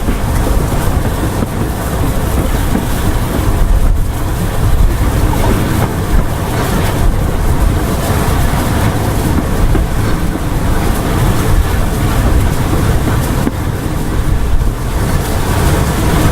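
Steam-hauled heritage train running, a steady, loud low rumble with no break.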